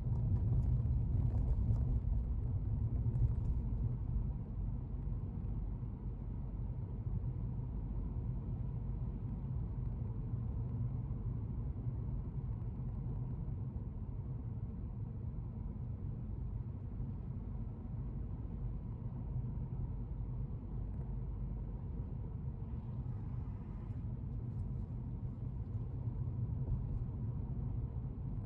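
Steady low rumble of a car driving, engine and tyre noise heard inside the cabin, a little louder in the first few seconds.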